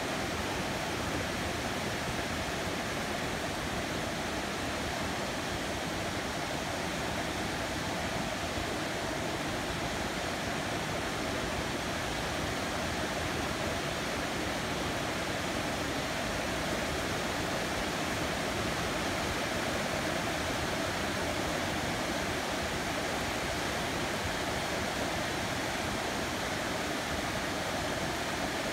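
Heavy rain falling steadily on a city, an even, unbroken hiss with no let-up.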